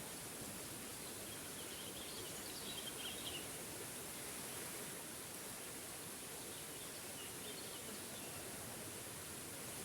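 Steady rush of a forest waterfall, with faint bird chirps over it from about one to three seconds in and again about seven seconds in.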